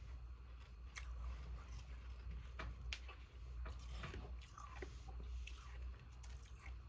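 A person biting and crunching pieces of frozen ice close to the microphone, with a series of irregular sharp cracks and crunches.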